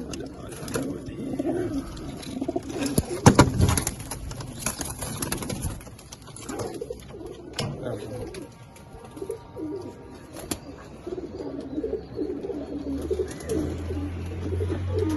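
Domestic pigeons cooing repeatedly, with sharp knocks and rattles among them, the loudest knock about three seconds in. A steady low hum starts near the end.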